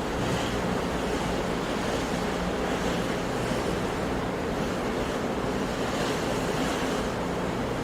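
Sea waves washing on a shore in a steady, continuous surf wash.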